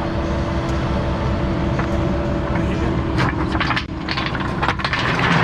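Diesel engine of heavy earthmoving equipment running steadily, with several sharp knocks and clanks between about three and five seconds in.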